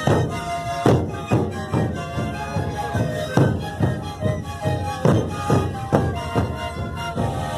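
Sikuri ensemble playing: many siku panpipes sound a breathy melody together over steady bass-drum beats, about two a second.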